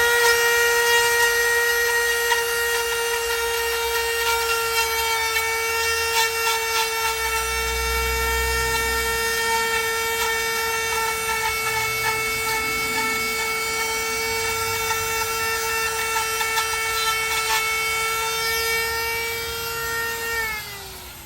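Handheld wood router running at a steady high whine, its bit cutting a recess in the wooden door frame for the latch, with scattered clicks and low rumbles as it bites into the wood. The motor winds down near the end.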